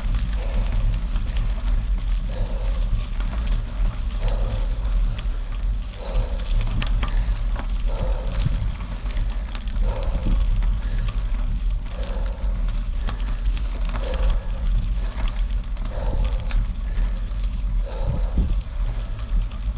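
Wind rumbling over the microphone and bicycle tyres crackling over gravel during a ride, with a soft pulse repeating about every two seconds.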